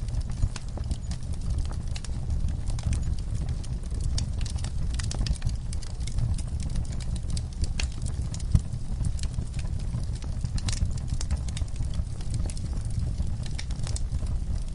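Logs and coals in a camp fire pit crackling and popping: irregular sharp cracks over a steady low rumble, with one louder pop about halfway through.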